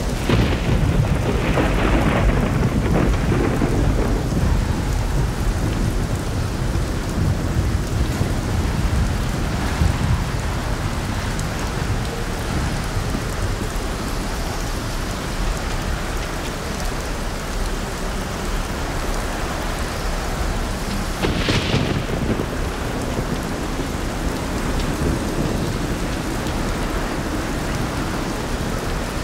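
Steady rain with rolling thunder: a long rumble of thunder right at the start, a smaller one about ten seconds in, and a sharper peal about two-thirds of the way through.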